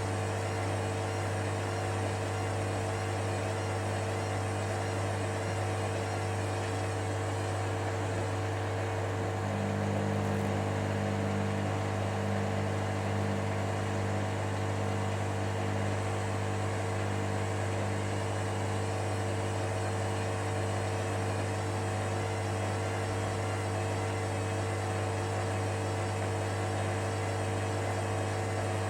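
Hoover Dynamicnext washing machine running mid-wash, a steady hum; a second, lower hum joins in about nine seconds in.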